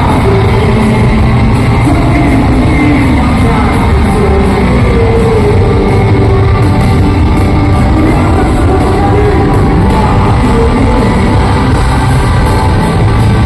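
Live rock band playing loudly, with a lead voice singing and the crowd shouting and singing along.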